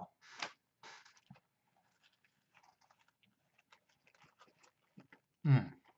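Faint close-up chewing of a crispy fried chicken sandwich: soft wet mouth clicks and small crunches. A brief low vocal sound, louder than the chewing, comes near the end.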